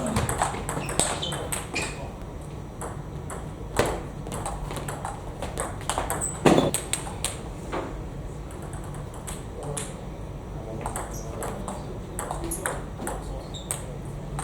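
Table tennis ball being struck back and forth in rallies: a quick, irregular run of sharp clicks off bats and table, with a couple of louder knocks.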